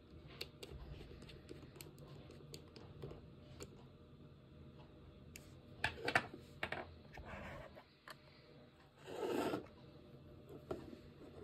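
Scattered light clicks and taps, like typing or handling things on a desk, with a short cluster of louder clicks about six seconds in and a longer scraping, rustling noise about nine seconds in.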